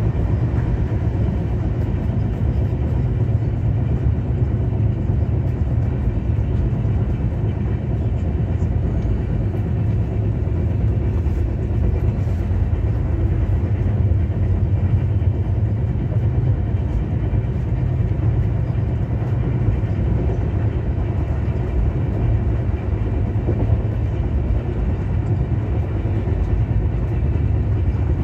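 Steady running noise of a moving express train heard from inside a passenger coach: a continuous low rumble of wheels on rail at speed.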